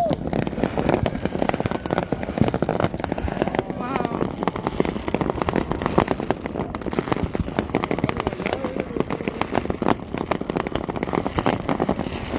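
Many fireworks and firecrackers going off all around, a dense run of overlapping crackles and bangs with no let-up.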